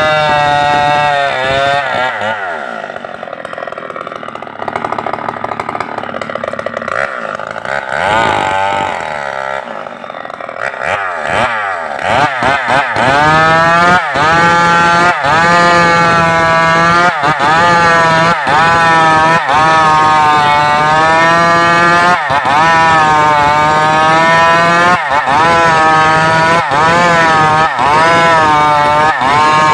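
Stihl MS 381 two-stroke chainsaw running at high revs, dropping back to a low idle for several seconds with a couple of short throttle blips. About twelve seconds in it is held at full throttle again, its pitch wavering as it cuts into the trunk, with brief dips about once a second.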